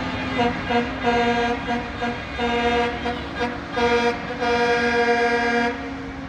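Truck horns honking: a string of short toots followed by one long blast of about a second, over the low rumble of passing truck engines.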